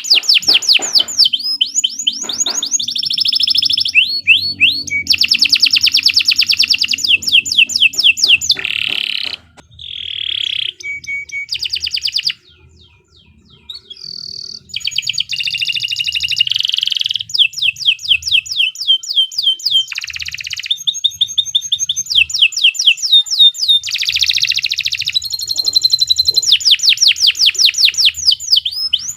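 Domestic canary singing a long song of fast rolling trills and rapidly repeated notes, with a brief pause near the middle.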